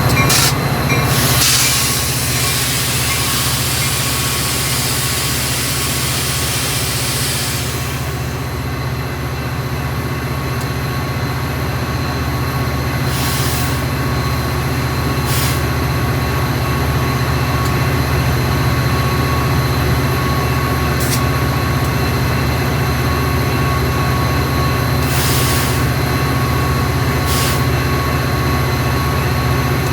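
Metra diesel commuter train running steadily with a deep engine rumble and a thin steady whine. About a second in, a long hiss of air sounds for several seconds, and a few brief hisses follow later on.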